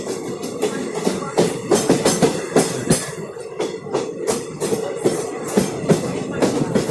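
LHB passenger train running past, its wheels clattering over the rail joints in a quick, uneven run of clacks over a steady rolling rumble.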